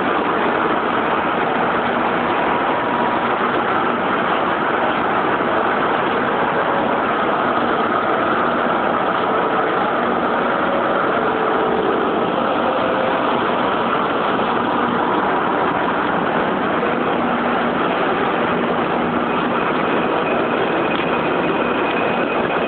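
Metro train running, a steady even noise with a few faint steady tones from its motors.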